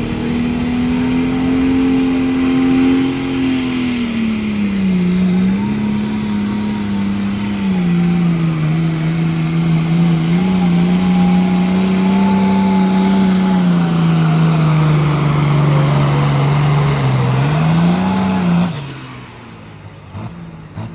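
Pulling machine's engine at full throttle dragging a weight-transfer sled down the track. Its pitch sags gradually as the sled's load builds, with a few short dips and recoveries. The engine cuts off suddenly near the end as the hook ends.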